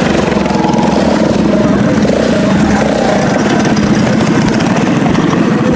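Small mini-bike engines running loud and steady, a fast continuous firing.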